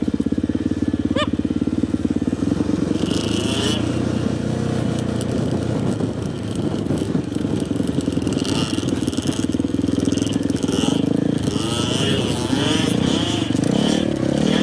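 Dirt bike engine running steadily at low revs, with the pitch wavering in the second half as the throttle changes.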